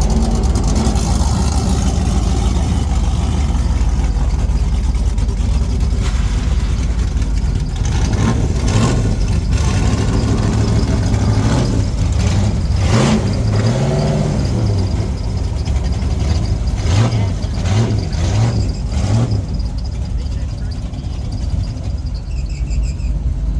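Truck engine running, then revved in a string of short blips through the middle, its pitch rising and falling with each blip before settling back.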